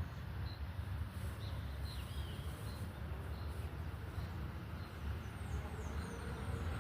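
Birds chirping: a short call repeated about every second, with a few sweeping calls and quick high notes, over a steady low rumble.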